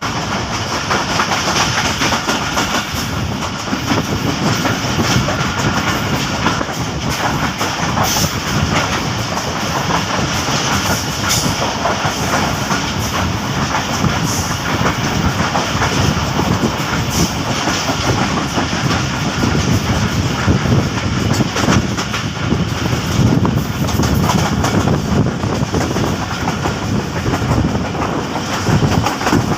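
Pakistan Railways express passenger train passing close by, its coaches' wheels clattering over the rail joints in a steady loud rumble with frequent sharp clicks.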